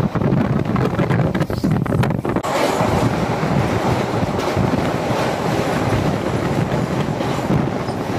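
Two passenger trains running side by side on adjacent tracks: the steady rumble and rattle of the wheels and coaches of a passing train, heard close up from the open doorway of a moving train, with a few sharp clicks about two seconds in.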